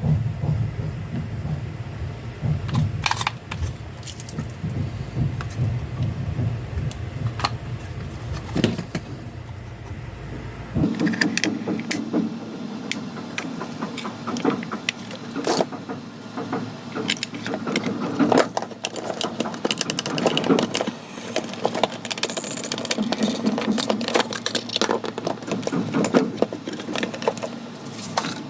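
A low hum for about the first eleven seconds, which stops abruptly. Then irregular clicking and rattling of small hard parts being handled and worked on.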